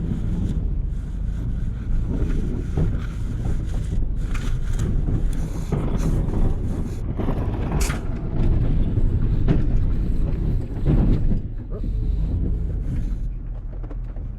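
Snow plow truck running with a steady low rumble, with the plow scraping and knocking in irregular bursts; the sharpest knock comes about eight seconds in.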